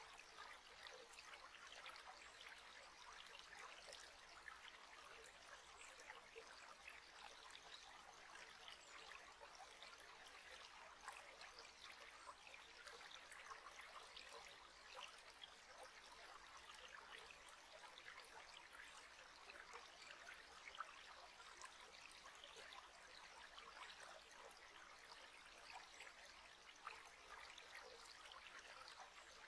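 Faint, steady trickling of running water, as from a small stream.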